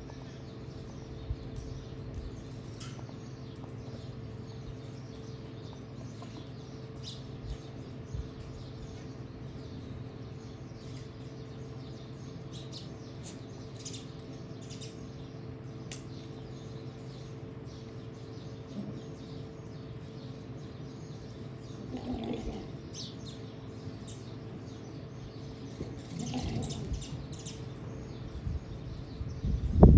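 Small birds chirping on and off over a steady low hum. Louder, briefer pitched sounds come about two-thirds of the way through and again near the end.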